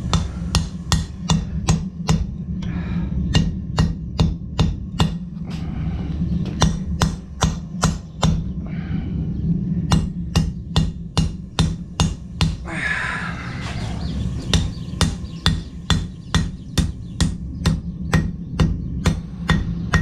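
Blacksmith's hand hammer striking hot metal on an anvil, about three blows a second in runs broken by short pauses, over a steady low hum.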